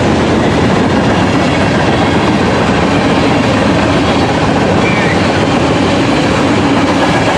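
Loaded freight train's tank cars rolling past close by: a steady rumble with the clickety-clack of steel wheels on the rails.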